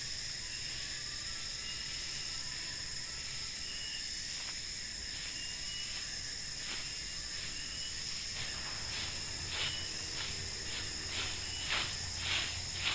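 Forest insect chorus at night: a steady high-pitched ringing with short chirps repeating every second or so. From about two-thirds of the way in, a series of rustling crunches at about two a second grows louder toward the end.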